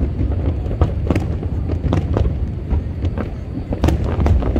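Aerial fireworks going off: a quick, irregular series of bangs and crackles over a steady low rumble.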